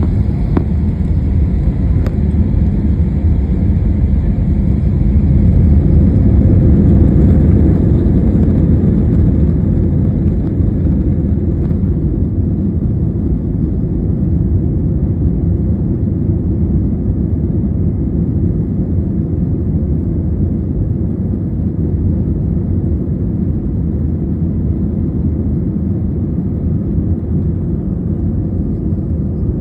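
Passenger airliner taking off: its engines at takeoff power with a steady low rumble, loudest about six to eight seconds in, then easing slightly.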